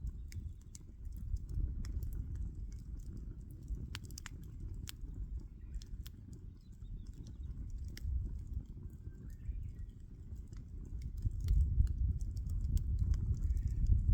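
Wood fire crackling, with scattered sharp pops over a low rumble that grows louder near the end.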